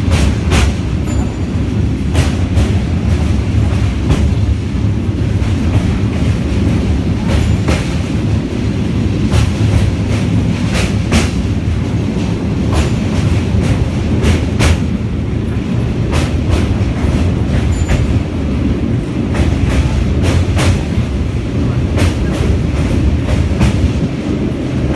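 Express passenger train running at speed, heard from inside a coach: a steady low rumble with sharp clicks at irregular intervals as the wheels cross rail joints.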